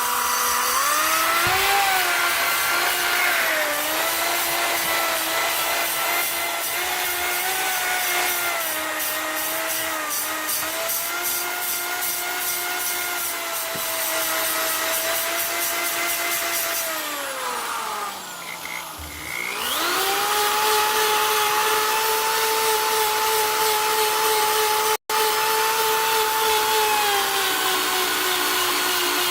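Power tool spinning a fiber abrasive wheel against the winch's aluminum housing, stripping powder coat and rust. Its pitch wavers under load, winds down about two-thirds of the way through, then comes back up to speed and runs steadily.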